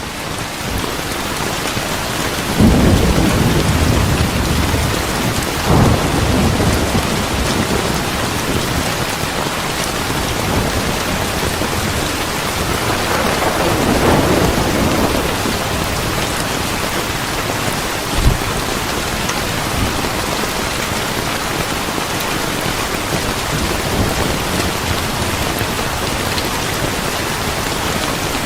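Steady heavy rain with low rolling thunder, swelling a few seconds in, again briefly at about six seconds, and once more near the middle. A single short sharp crack comes a little past the middle.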